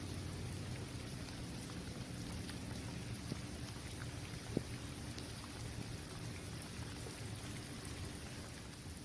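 Steady rain falling on a basketball court's hard surface, with scattered individual drops ticking and one sharper tap about halfway through. A steady low rumble sits underneath.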